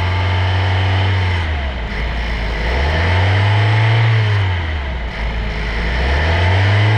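2023 Honda CR-V's 1.5-litre turbocharged four-cylinder engine being revved and let fall back: the engine note starts high, drops, climbs again to a held rev, drops, and rises once more near the end.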